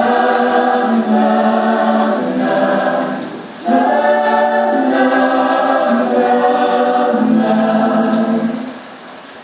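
Slow vocal music with choir-like singing on long held notes, in two phrases: a short break about three and a half seconds in, and a fade near the end.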